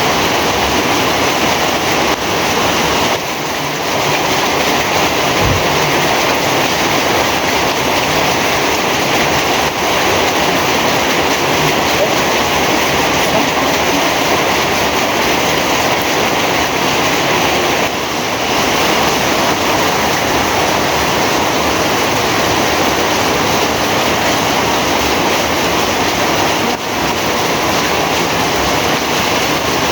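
Heavy rain falling steadily: a loud, dense, even hiss of rainfall.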